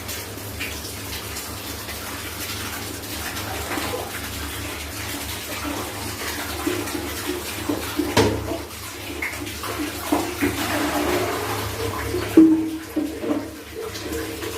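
Clothes being washed by hand in water, with steady splashing and sloshing and a couple of sharper knocks, one about eight seconds in and a louder one about twelve seconds in.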